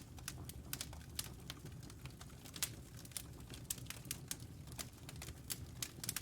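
Wood fire crackling in a fireplace: irregular sharp pops and snaps, several a second, over a low rumble of burning.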